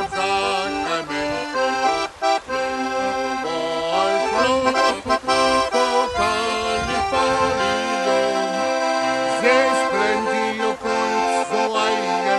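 Accordion playing an instrumental passage of a sea shanty: a melody over held chords, with a short gap about two seconds in.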